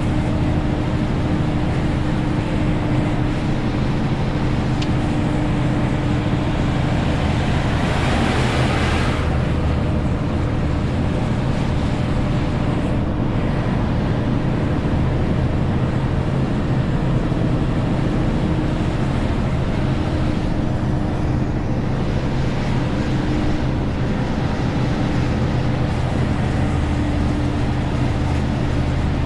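Renault T520 truck's six-cylinder diesel engine running steadily while the truck drives loaded to about 40 tonnes, with road noise. A brief hiss comes about eight seconds in.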